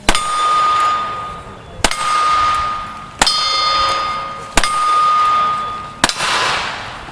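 Five gunshots at a steady pace about a second and a half apart, each followed by the ring of a struck steel target. The first four shots leave a clear ringing tone; the last is followed only by a wash of sound.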